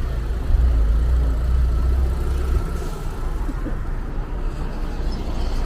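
Car engine running with a deep, steady rumble that grows heavier about half a second in and eases off about two and a half seconds in.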